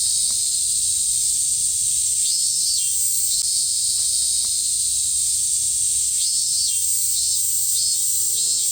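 Cicadas singing in a steady, loud, high-pitched chorus, with a second pulsing insect call rising over it three times.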